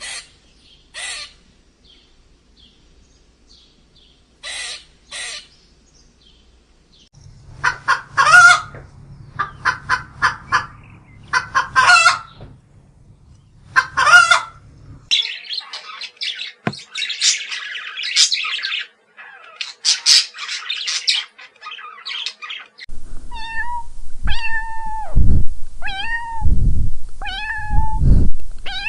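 Common chaffinch chirping and calling: short, sharp high calls and quick chirping phrases, heard in several separate takes. From about 23 seconds in, a different animal gives repeated falling calls over low thumps.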